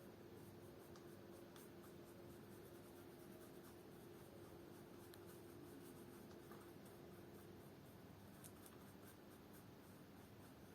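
Near silence with faint, scratchy rubbing: cream being worked into the leather of a shoe to blend its colour. A faint steady hum stops about three quarters of the way through.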